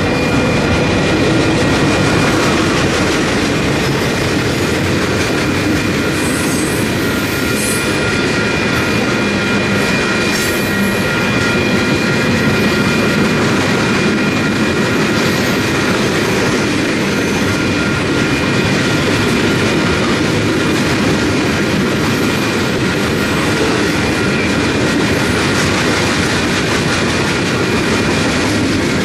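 Freight train cars rolling past close by, wheels clattering over the rail joints, with a steady high-pitched wheel squeal running under the rumble.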